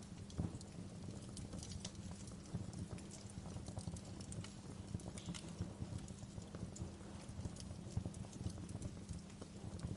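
Fire burning with a steady low rumble and irregular crackles and pops scattered throughout, a few sharper pops among them.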